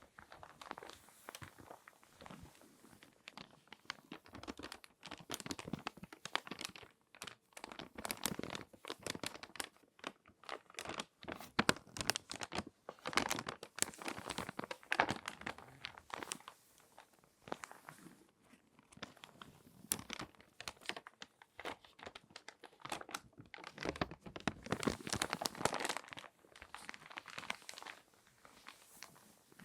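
Glossy magazine paper being folded and handled close to the microphone: dense, irregular crinkling and crackling, with louder bursts of crinkles now and then.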